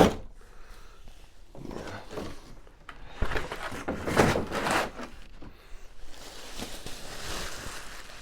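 Cardboard and plastic packaging being gathered up and handled: a sharp knock at the start, then irregular rustling and crinkling with a few thuds, and a steadier rustle near the end.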